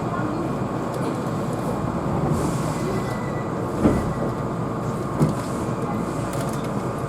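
Keihan electric train running, heard from inside the carriage: a steady rumble of wheels and running gear, with two sharp knocks near the middle, about a second apart.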